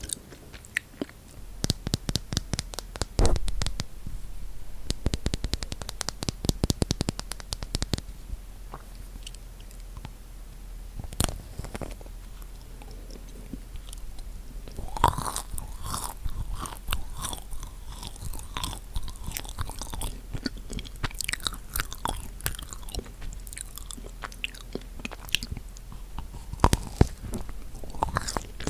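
Close-miked eating of chocolate-coated marshmallow cookies: dense crackling bites and crunching through the chocolate shell in the first several seconds, then steady chewing from about halfway through.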